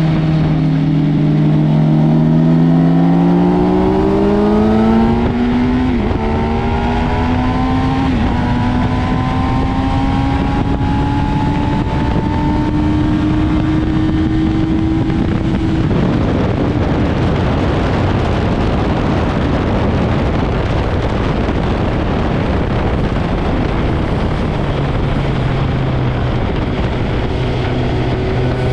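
Sport motorcycle engine accelerating hard, its pitch climbing steadily for about fifteen seconds with brief breaks near six and eight seconds in. Then a loud rushing noise swamps the engine note, and near the end a low steady engine note returns.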